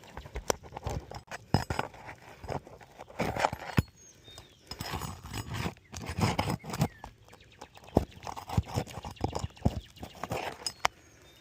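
Irregular scraping and rustling on roof shingles, broken by sharp knocks, from hand work on a damaged shingle.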